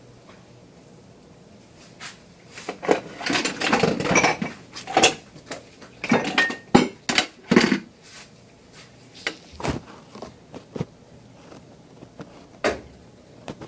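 Dishes and cutlery clattering and clinking as a dishwasher is loaded or unloaded: a dense run of knocks and clinks in the first half, then a few scattered clicks.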